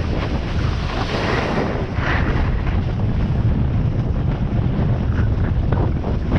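Wind buffeting the microphone on a snowboard run, with the steady hiss of the board sliding over snow.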